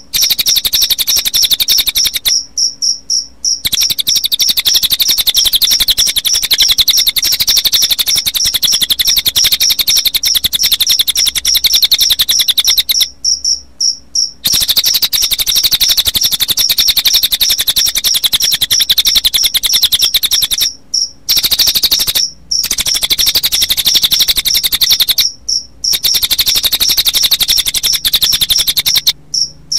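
Recorded cililin bird song mixed with cricket chirping, used as a songbird training track: a very fast, high-pitched trilling that runs almost without pause, with a few short breaks.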